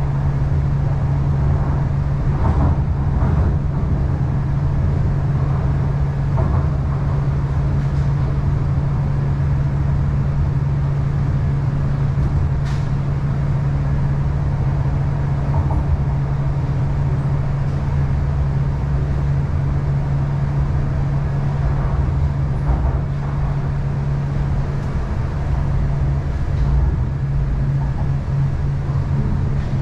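Inside the passenger car of an MTR East Rail line R-Train electric multiple unit running between stations: a steady low hum over the rumble of wheels on rail, with a few faint clicks.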